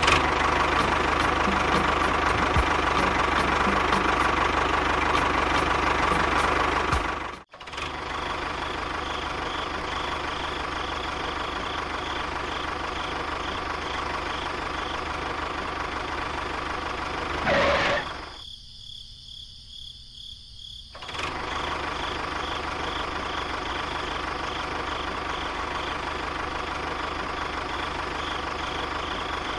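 Tractor engine running steadily with a knocking, idle-like chug. It cuts out sharply for an instant about seven seconds in and dips for a few seconds past the middle.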